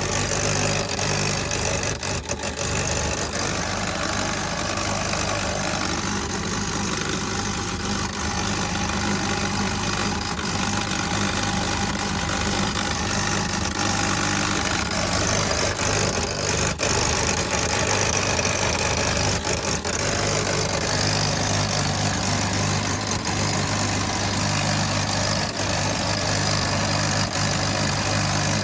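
Electric-heating control unit giving a steady electrical hum and buzz, with a few faint clicks.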